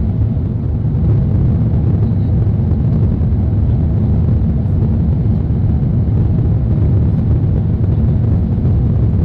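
Steady low rumble of an Airbus A380 in flight heard inside the cabin, airflow and engine noise with no sudden events, as the airliner descends toward landing.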